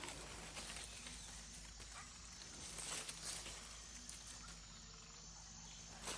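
Faint outdoor rustling with a few light, scattered knocks.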